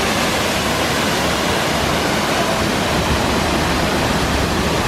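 Waterfall, falling water making a loud, steady rushing noise.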